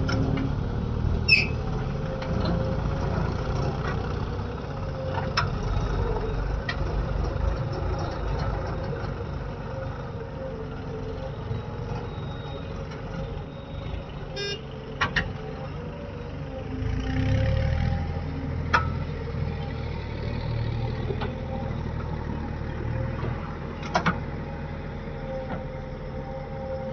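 Heavy vehicle engine running steadily, with a few short sharp knocks over it.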